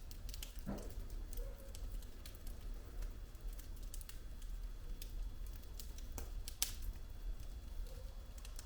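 Wood fire burning in a fireplace, logs crackling with irregular pops and snaps over a low steady rumble of the flames. A sharper pop comes about six and a half seconds in.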